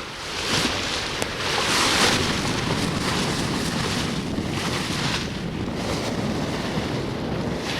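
Wind buffeting the microphone over water rushing and splashing past the hull of an H-boat under sail, swelling in surges, the loudest about two seconds in.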